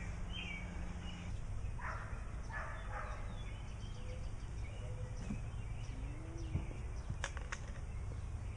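Birds chirping with short, downward-sliding notes, over a steady low outdoor rumble. A couple of sharp clicks come near the end.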